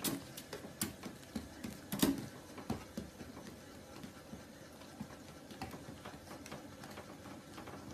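Treadmill running with a faint mechanical whir, and a husky puppy's paws pattering on the moving belt in irregular soft taps and clicks.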